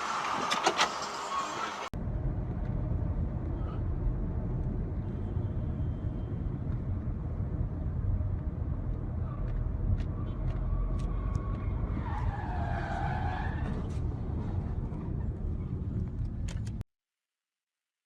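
Car's road and engine rumble heard through a dash camera, steady and low, with a few scattered clicks. A hissier stretch with sharp clicks cuts to it about two seconds in. A brief pitched sound that dips and rises comes about two-thirds of the way through, and the sound cuts off abruptly near the end.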